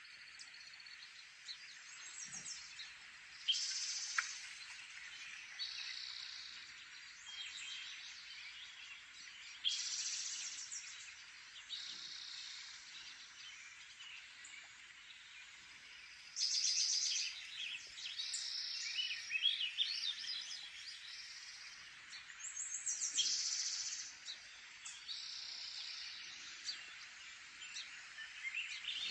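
Songbird song played from a bird-watching video through a screen's speaker: phrases of chirps and trills every second or two over a steady hiss.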